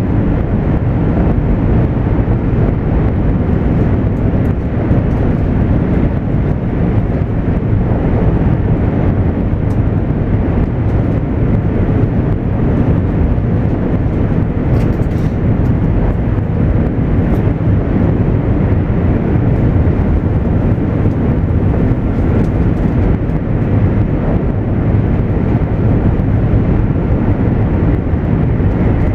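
Interior running noise of a JR East 200 series Shinkansen at speed: a steady low rumble heard from inside the passenger car.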